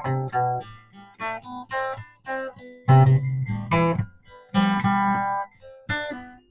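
Acoustic guitar music: plucked notes and chords picked out in short phrases, each note ringing and fading.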